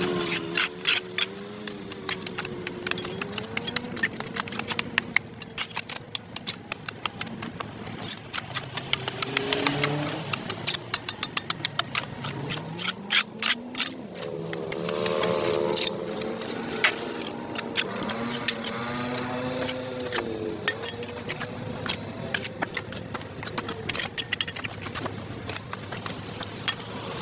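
An engine running, its pitch wavering up and down, with many sharp clicks and scrapes over it.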